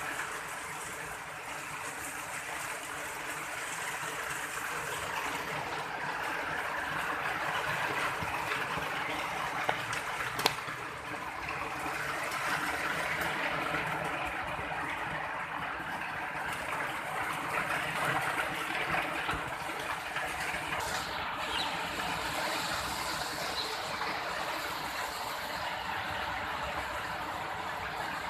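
Steady rain falling, an even wash of water noise, with two sharp clicks about ten seconds in.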